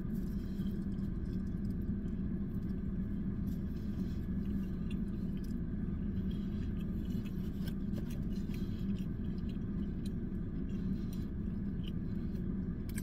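A person chewing a mouthful of cheeseburger with small wet clicks, over a steady low hum inside a car cabin.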